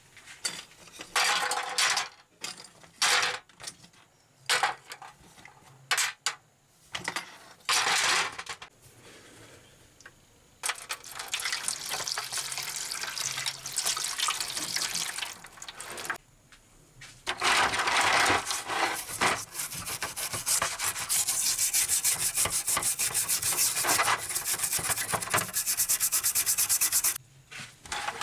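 Abrasive rubbing on the metal toy jeep: short separate strokes for about the first ten seconds, then continuous scraping with a fast, even rasp, broken by a brief pause around two-thirds of the way in.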